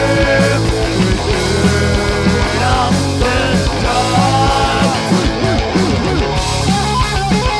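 A rock band playing loud punk-grunge: distorted electric guitars with bending notes over bass and a steady drum beat.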